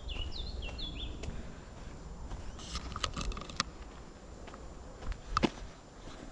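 A small bird singing a run of quick sliding high notes for the first second or so, then footsteps on a footpath with a few light clicks and one louder knock about five seconds in, over a low rumble.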